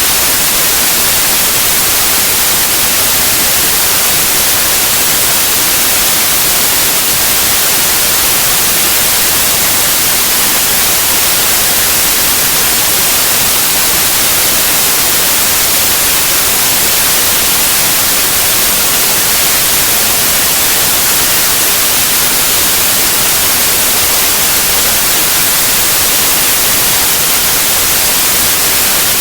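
Steady, loud white noise: an even hiss with no changes, strongest in the high frequencies.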